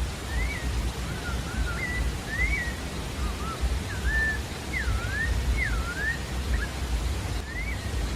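A sabiá-da-várzea singing a string of short, clear whistled notes that slide up and down, with a pause and then one more note near the end. A steady low rushing noise runs underneath.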